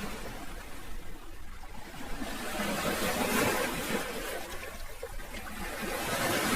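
Sea waves washing on the shore: a hiss of water that swells and ebbs, with one wash fading out in the first seconds, another building about halfway and a third rising near the end.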